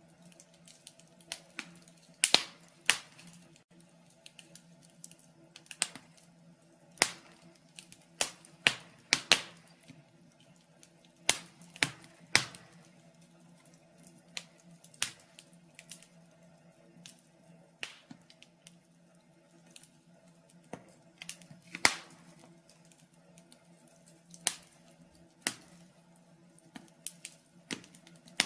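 Wood fire in a fireplace crackling, with sharp irregular pops and snaps one to three times a second, over a faint steady low hum.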